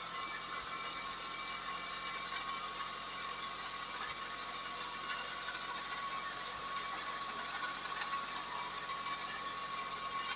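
Kei car engine idling with a misfire that has lit the check-engine light, which the owner puts down to a failing spark plug. The running is steady, with a few faint ticks.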